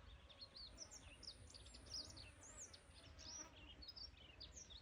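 Faint chirping of several small birds: many short, high notes in quick succession, overlapping one another, over a low rumble.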